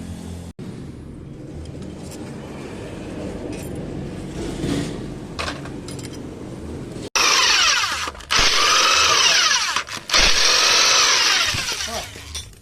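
A power tool runs in three loud bursts with a high whine that bends up and down in pitch, beginning about halfway through after a lower steady mechanical background.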